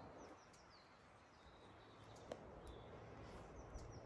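Near silence in a pine forest, with a few faint, short, high, falling chirps from small birds and one sharp click a little past two seconds in.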